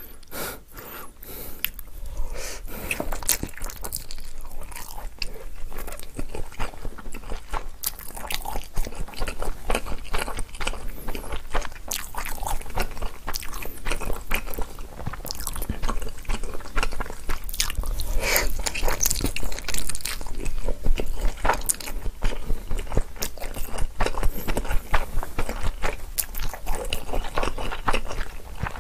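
Close-miked mouth sounds of someone eating Chapagetti black-bean instant noodles: steady, irregular wet chewing and smacking clicks.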